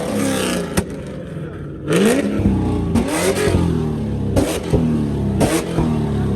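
Car engine revved hard over and over, the pitch sweeping up and falling back each time, with a big surge about two seconds in and a few sharp cracks.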